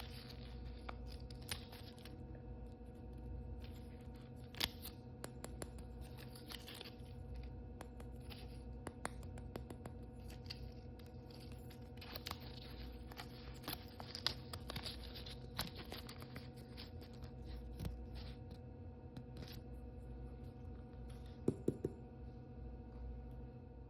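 Toy blind-bag packaging being handled and torn open by hand: irregular crinkling, rustling and small ripping sounds with scattered clicks, and a few sharper taps near the end.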